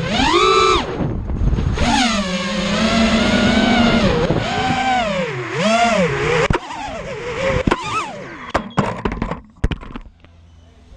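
FPV racing quadcopter's brushless motors whining, the pitch swooping up and down every second or two with the throttle. Toward the end come sharp clicks and crackles, and the motor sound cuts out about ten seconds in.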